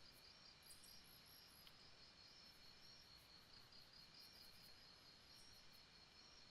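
Faint chorus of insects, such as crickets, trilling steadily at a high pitch, with short high chirps repeating over a soft background hiss.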